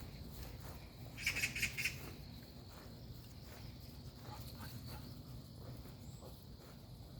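Faint outdoor ambience with a steady low rumble, broken about a second in by a brief run of four or five quick, high-pitched clicks or chirps.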